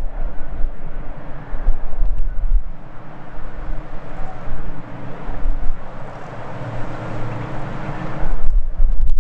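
Departing jet airliner's engine noise, steady and loud, with a faint steady hum, over heavy gusts of wind buffeting the microphone. The engine noise cuts off abruptly near the end, leaving the wind rumble.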